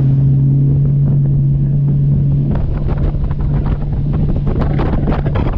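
Bass boat's outboard motor running at speed, a steady drone buried in heavy wind buffeting on the microphone; the engine tone drops away near the end while the wind and water noise carry on.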